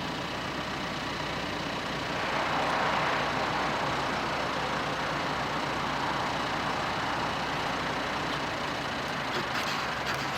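Diesel freight train passing: a steady low engine hum under a rushing rolling noise that swells about two seconds in and eases near the end.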